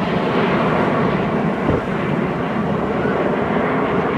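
Steady jet noise from a formation of Red Arrows BAE Hawk jet trainers flying a display, with no clear rise or fall.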